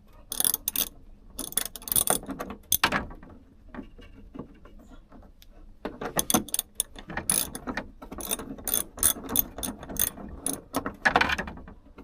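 Hand socket ratchet clicking in repeated bursts of quick strokes as a long bolt is backed out, with short pauses between the bursts.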